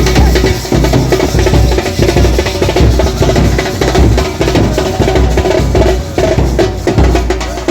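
Loud wedding-procession music: a Pahadi song played with a steady, heavy drum beat.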